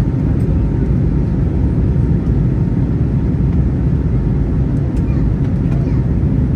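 Steady low rumble of an Airbus A321neo's Pratt & Whitney PW1100G geared turbofan engines and air noise, heard inside the passenger cabin, with a few faint clicks.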